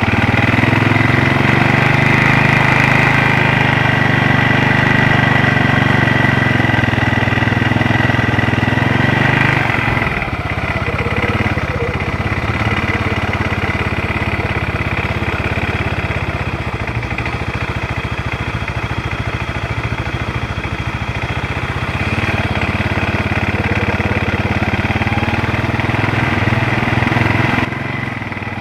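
ATV engine running while the quad rides the trail, with a high whine over the engine note; about ten seconds in it drops to a lower, lumpier note, picks up again near the twenty-second mark, and eases off just before the end.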